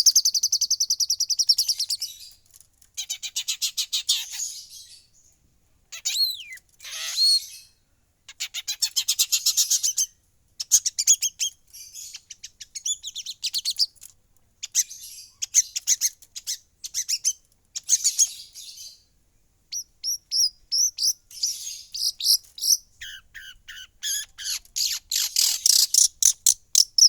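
Long-tailed shrike (Javan pentet) singing in repeated phrases of rapid, high-pitched chattering trills, each a second or two long, with short pauses between them and a few gliding whistled notes mixed in.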